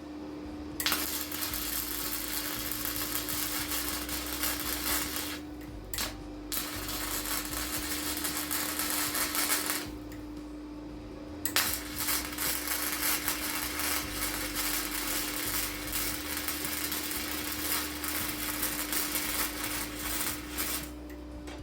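Electric grinder running steadily, with steel pressed against it in several long grinding passes, the harsh grinding noise breaking off briefly twice while the motor hum carries on.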